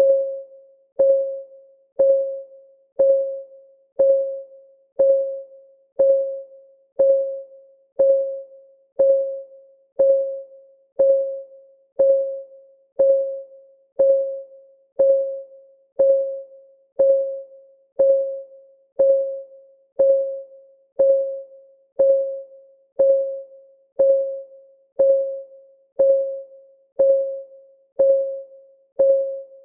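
Countdown timer's clock ticking sound effect, one even tick a second. Each tick is a short, pitched knock that rings briefly and dies away.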